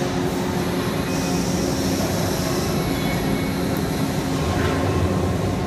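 Steady rumble and hum of a moving vehicle heard from inside the cabin, with a brief higher hiss about a second in.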